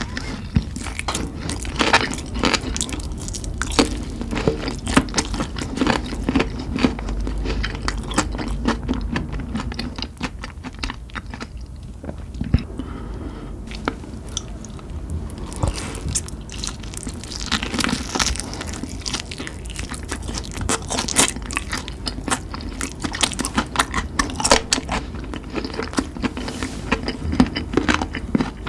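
Close-miked eating of spicy chicken: irregular bites, crunches and chewing, thinning out for a few seconds about midway.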